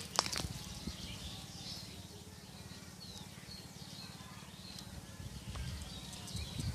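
Birds chirping faintly in short scattered calls over low outdoor background noise, with one sharp click just after the start.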